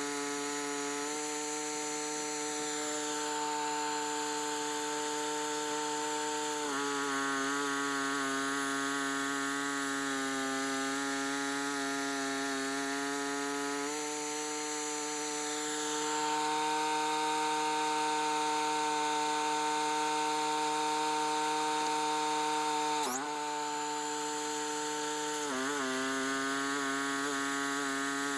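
Sawmill cutting boards from a maple log: a steady machine drone with the blade running through the wood, its pitch stepping up and down a few times, with a brief dip in pitch about 23 seconds in.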